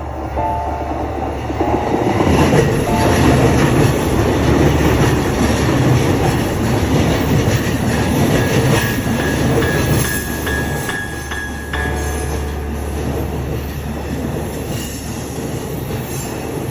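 A train passing over a level crossing, its wheels rumbling and clattering on the rails; loudest from about two to twelve seconds in. A thin steady squeal runs between about eight and twelve seconds in.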